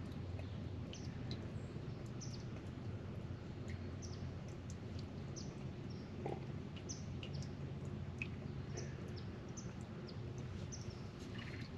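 Wild birds chirping: short, scattered high calls every second or so, over a faint steady low rumble of outdoor background noise.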